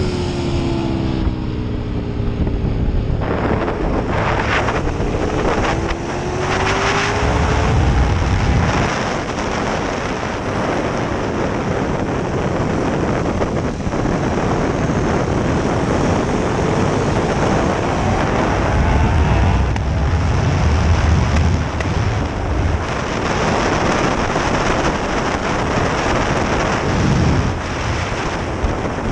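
KTM 1290 Super Duke R's V-twin engine under hard acceleration, its pitch rising through the revs a few times, largely buried under heavy wind rush on the onboard microphone at track speed.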